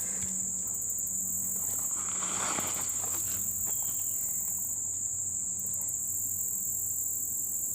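Steady, high-pitched chorus of insects, crickets or similar, trilling without a break.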